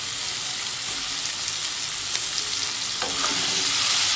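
Potato cubes, onions and tomatoes sizzling in hot oil in a kadai while a metal spatula stirs them, scraping and clicking against the pan. The sizzle grows a little louder about three seconds in.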